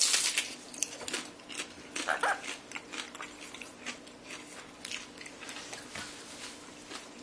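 White-fronted Amazon parrot eating cheese: irregular sharp clicks and snaps of its beak, with a short harsh call about two seconds in.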